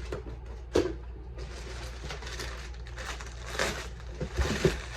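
Packaging rustling and crinkling as a gift is unwrapped by hand, in several swells, with a sharp knock about a second in and a couple of soft thumps near the end.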